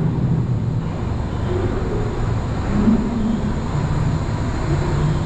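Steady low rumble of the Wuppertal Schwebebahn suspension railway train.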